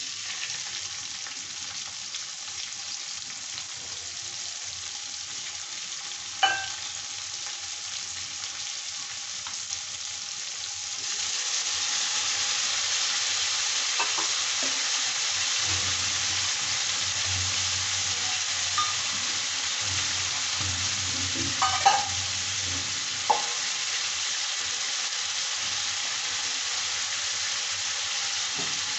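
Sliced onions and chopped tomatoes sizzling in hot oil with cumin seeds in a kadhai, frying a tadka. The sizzle starts as the onions go in and grows louder about eleven seconds in, once the tomatoes are added, with a few sharp clicks along the way.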